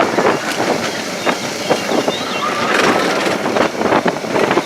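Expedition Everest roller coaster train rattling and clacking along its track, with a brief squeal or cry partway through.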